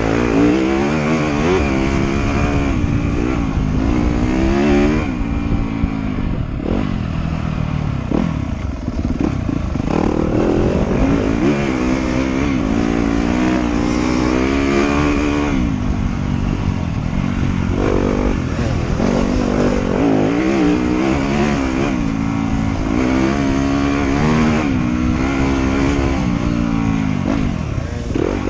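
Trail motorcycle engine running hard, its pitch climbing and dropping every few seconds as the throttle is opened and rolled off.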